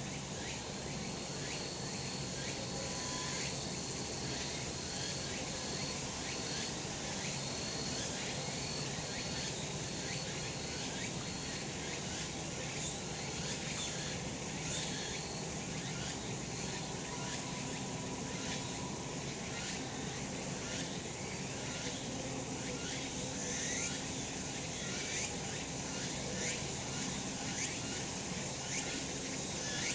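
Cicadas singing in a steady, dense chorus: a continuous high-pitched buzz, with a thin higher tone that comes and goes.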